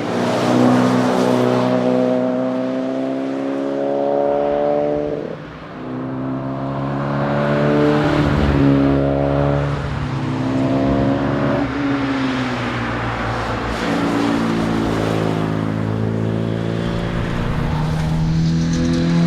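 Morris Mini Cooper S's A-series four-cylinder engine under hard acceleration: the revs climb and drop back through several gear changes, then hold fairly steady near the end.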